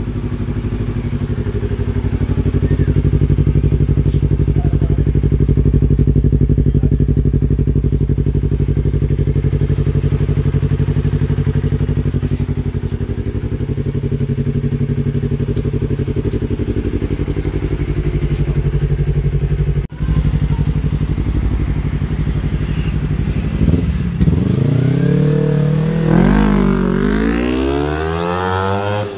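Yamaha R25's 250 cc parallel-twin engine breathing through an F2racing Big Volume aftermarket exhaust, idling steadily for most of the stretch. It then revs up and back down several times in quick throttle blips near the end.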